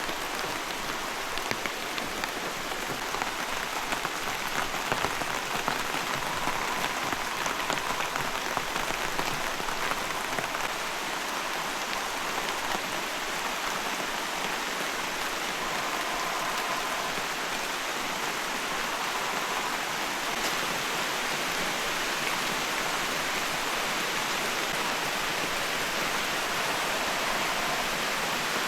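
Heavy rain falling steadily, with many separate drop hits heard through the downpour.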